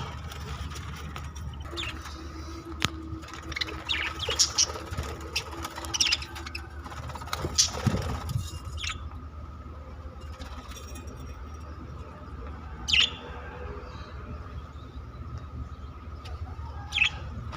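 Pet budgerigars chirping in short high calls, many in the first half and only a few scattered ones later, over a faint steady hum.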